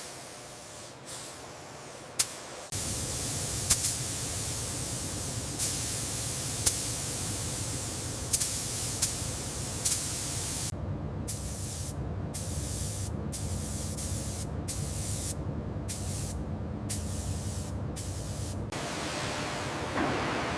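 Paint spray gun hissing as it starts spraying about three seconds in, with a few sharp clicks. Later the spray cuts in and out in short bursts about once a second, then settles back to a steady hiss near the end.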